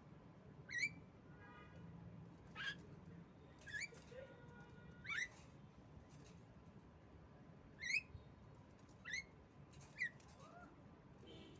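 Female Javan myna (jalak kebo) giving short, sharp calls that sweep quickly upward in pitch, about seven of them at irregular intervals of one to three seconds.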